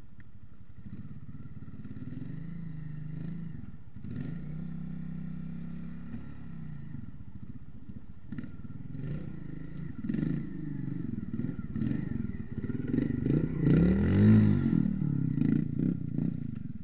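Motorcycle engines running at idle. Later one grows louder, its pitch rising and falling as it revs or rides close by, with some clatter.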